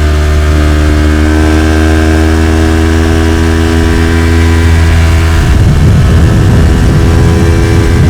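Yamaha YZF-R3's 321cc parallel-twin engine through an Arrow Pro-Race slip-on exhaust, pulling under throttle at a steady, slowly climbing pitch. About five and a half seconds in, the sound turns rougher and a little louder.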